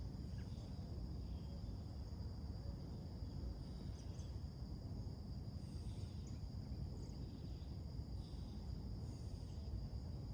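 Steady high-pitched insect chorus, with faint short bird chirps coming about once a second and a low rumble underneath.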